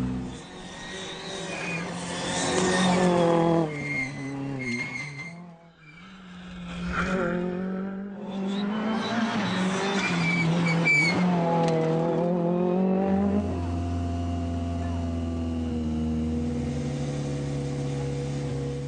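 Rally car engine at full throttle, its note climbing through the revs and dropping back at each gear change several times. It then holds a steadier note for the last few seconds.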